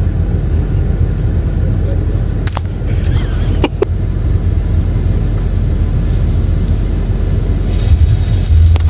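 Steady low road and engine rumble inside a moving car's cabin, with a couple of sharp clicks about two and a half and three and a half seconds in.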